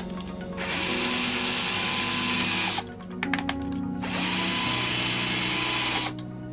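Cordless drill running in two bursts of about two seconds each, spinning up and stopping with a short pause and a few clicks between, over background music.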